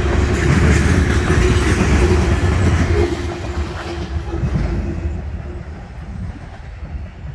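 Oil train's loaded tank cars and the last car, a covered hopper, rolling past on the rails, a dense wheel rumble with a steady tone running through it. About three seconds in the sound begins to fade as the end of the train moves away, and the tone dies out about five seconds in.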